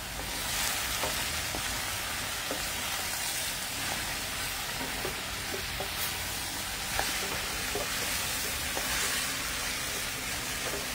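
A pan of karela (bitter melon), okra, potato and tomato stir-fry sizzling steadily in hot oil as it is stirred, with scattered light clicks of the utensil against the pan.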